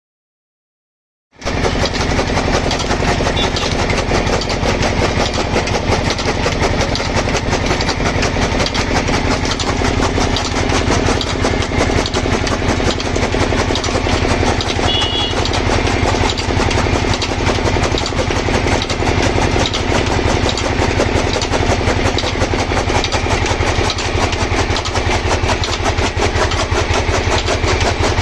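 An engine pumpset running steadily with a fast, even chugging rhythm, driving a chaff cutter machine. The sound starts abruptly about a second and a half in.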